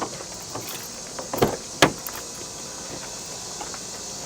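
A few sharp knocks and clicks, a cluster about one and a half seconds in and the loudest just before two seconds, over a steady high hiss.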